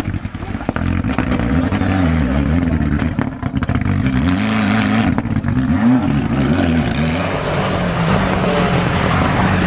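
Rally car engine revving hard, its pitch rising and falling again and again as the driver goes on and off the throttle and through the gears.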